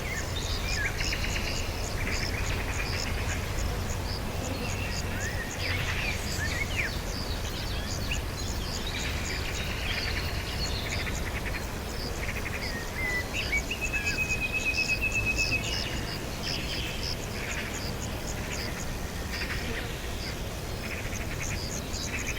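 Several birds chirping and calling in short, varied notes over a steady, rapid high-pitched ticking. About fourteen seconds in, a fast trill of a couple of seconds stands out as the loudest sound, and a low rumble runs underneath.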